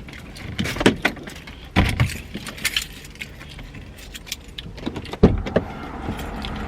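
Keys jangling amid handling clatter, with a few sharp knocks, the loudest about five seconds in.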